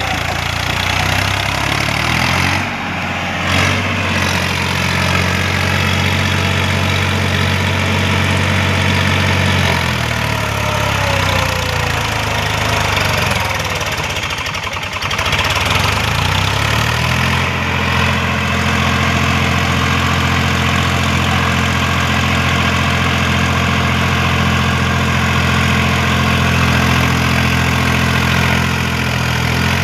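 Swaraj tractor's diesel engine running hard under load while the tractor struggles in sand. Its pitch sags around the middle and rises again a few seconds later.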